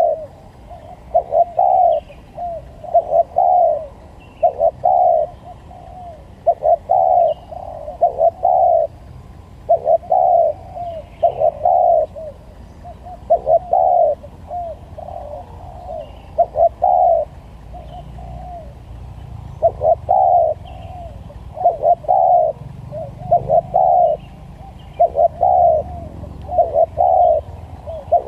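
Spotted doves (tekukur) cooing over and over, in short groups of two or three coo notes. Faint high chirps of small birds sound above, and a low rumble rises in the background about two-thirds of the way through.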